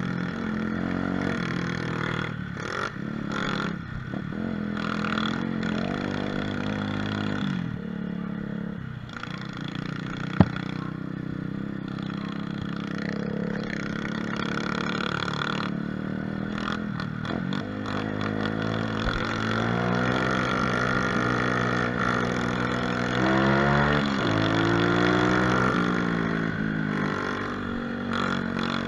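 Mini moto (pit bike) engine running under way, its revs rising and falling again and again through throttle and gear changes, with a sharp click about ten seconds in.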